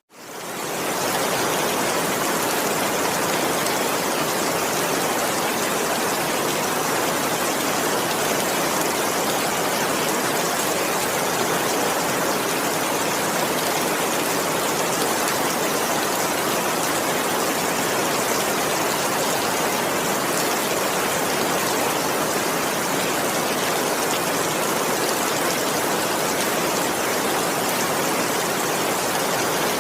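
Heavy rain falling in a steady, dense hiss, with no thunder. It fades in from a brief drop-out in the first second, then holds even.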